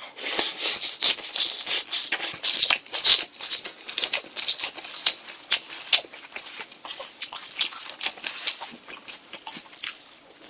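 Close-up mouth sounds of a person eating a mouthful of rice ball: a quick run of wet chewing clicks and lip smacks, thickest over the first three seconds, then sparser.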